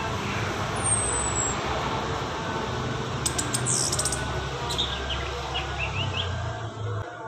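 Small songbirds giving short high chirps and quick calls, several times, over a loud steady rushing noise that starts suddenly and drops away near the end.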